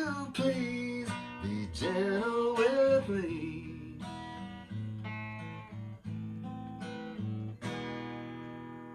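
Acoustic guitar ending a song: a held, wavering sung note over the strummed guitar for the first three seconds, then a few single picked notes, and a last chord struck near the end that rings on and fades out.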